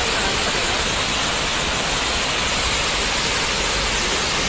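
Waterfall rushing steadily, a dense even wash of falling water.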